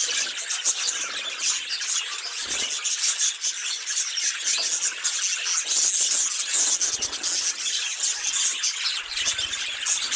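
A flock of budgerigars chattering and warbling continuously in a dense, high-pitched stream of chirps and squeaks.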